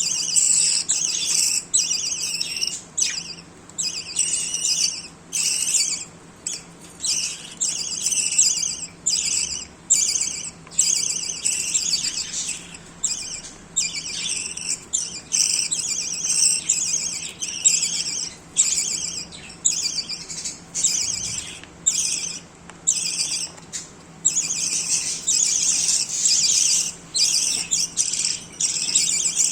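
Budgerigars chattering and warbling in a near-continuous run of high calls, broken by short pauses every second or so.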